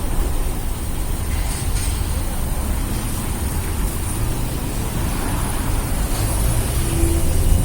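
Road traffic on a rain-wet city street: a steady low rumble of passing vehicles with a constant high hiss.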